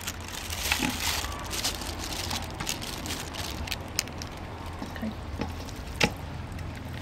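Food-preparation handling sounds: scattered clicks and clinks of utensils and ingredients being moved, the sharpest about four and six seconds in, over a steady low hum and a faint crackling hiss.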